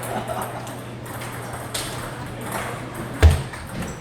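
Table tennis rally: a celluloid-type ball clicking off bats and the table, a few sharp knocks a second or less apart, with one much louder thump about three-quarters of the way through.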